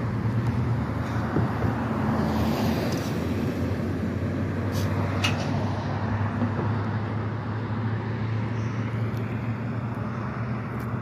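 Railcars rolling past on the track: a steady rumble of wheels on rail under a low hum, with a few sharp clicks around the middle, easing off slightly as the end of the train moves away.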